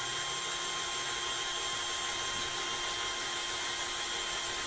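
Small electric drill running steadily, boring through a plastic brace into a carbon fibre arrow-shaft spar, which is hard to drill; a constant motor whine with no change in speed.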